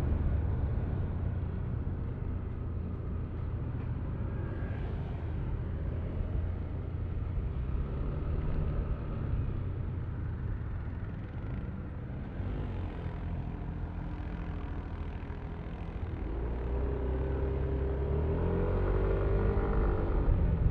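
Yamaha Aerox V3 scooter's single-cylinder engine running under way, with road and wind noise. It eases off at first, then rises in pitch over the last few seconds as the scooter accelerates.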